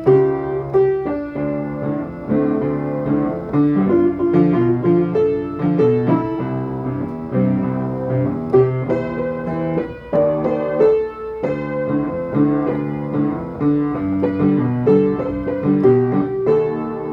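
Piano playing a lively festa junina tune, with many short, quickly repeated notes over a steady chordal accompaniment.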